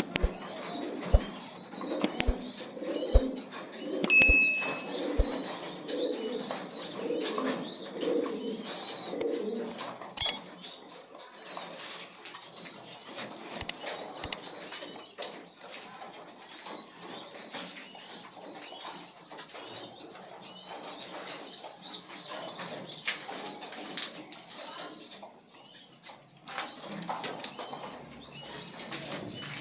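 Domestic pigeons cooing during the first ten seconds or so, over a steady run of rapid high chirps, with occasional sharp knocks and wing flaps.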